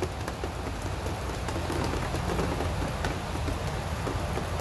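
Steady rain shower falling: an even hiss dotted with many small ticks of drops striking.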